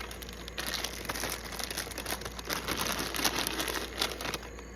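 Crinkling and rustling of a corn-chip bag as Fritos are taken out by hand, a dense crackle lasting about four seconds.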